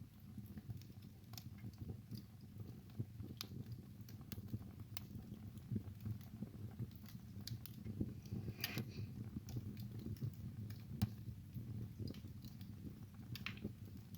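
Wood fire burning in a fireplace: irregular sharp crackles and pops over a low, steady rumble of the flames. A longer sputtering crackle comes a little past halfway, and another near the end.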